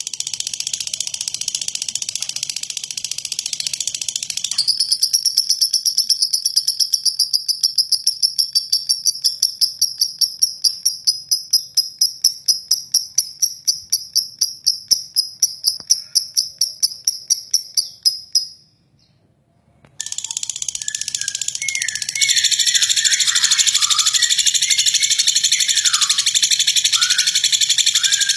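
Lovebird singing a long, rough 'ngeklek' trill: a very high, rapid rattling trill. After about four seconds it beats in pulses about three times a second, breaks off for a second or so, then runs on continuously with a few lower chirps over it.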